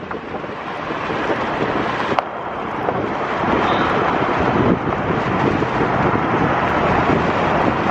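Pickup truck driving on a dirt road: steady tyre and road noise with wind, growing louder over the first few seconds as it picks up speed.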